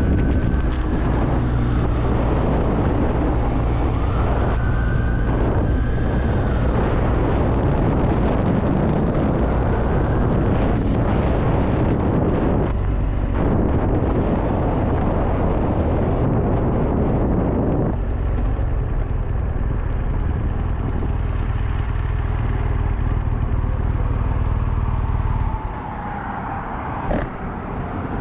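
Sport motorcycle riding, its engine running steadily under heavy wind noise on the helmet microphone. Near the end the engine note drops away and the sound gets quieter.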